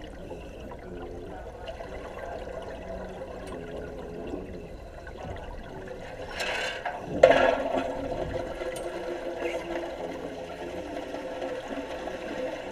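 Water bubbling and rushing, heard underwater in a welding tank, with a louder rush of bubbles a little past halfway.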